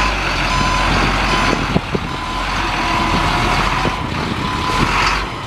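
Water truck running, with its back-up alarm beeping over the engine noise. There is a short hiss near the end.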